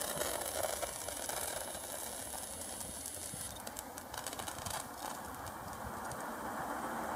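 Stadler FLIRT passenger train running toward the listener on snowy track: a steady rushing noise with scattered rattling clicks a few seconds in.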